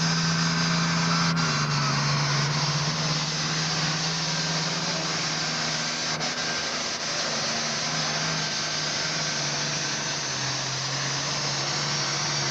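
Tractor engine running at a steady speed, its pitch dropping slightly a couple of times.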